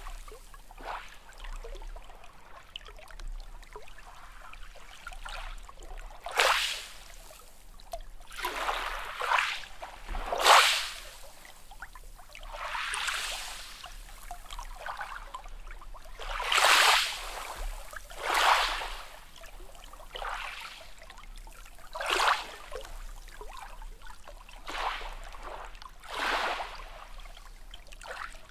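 Small sea waves washing in, a series of short splashing rushes of water every one to three seconds.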